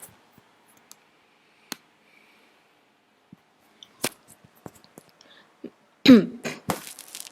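A few faint clicks in a quiet room, then about six seconds in a person clears their throat with a short, voiced cough.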